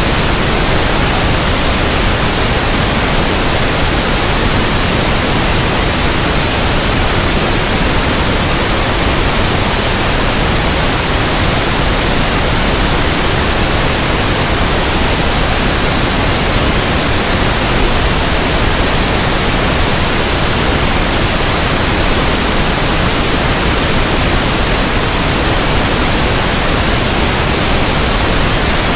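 Pink noise: a steady, even hiss spread across the whole range of pitch, without change or break.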